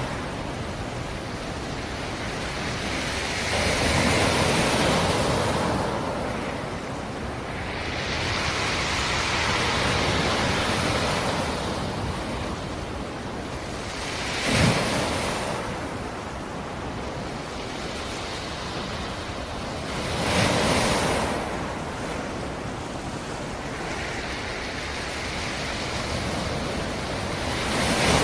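Sea surf breaking on a rocky shore: waves swell and wash in every few seconds, with one sharper crash about halfway through.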